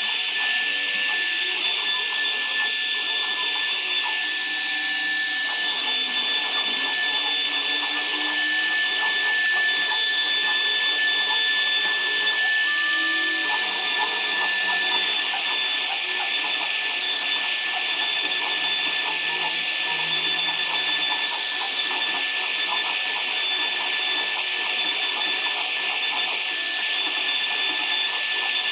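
Woodworking power tool running steadily, a continuous high whine over a loud hiss.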